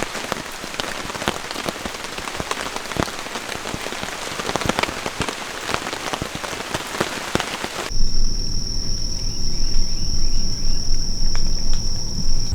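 Steady rain pattering, with many separate drops ticking on a surface. About eight seconds in, the sound cuts abruptly to a steady high-pitched whine over a low rumble.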